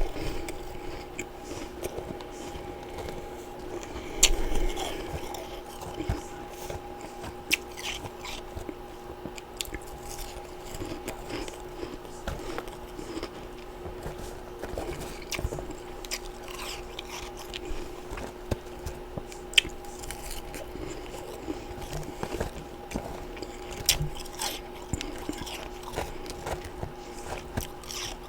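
Close-up biting and chewing of freezer frost and ice chunks: scattered crisp crunches, with the loudest bite about four seconds in. A steady low hum runs underneath.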